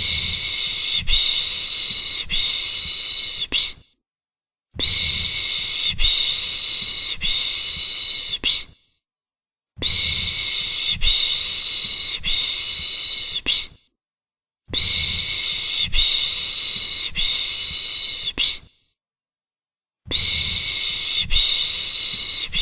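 A person's long shushing 'shhh' sound for calming a baby, about four seconds at a time with a second's pause between, repeated the same way five times as a loop.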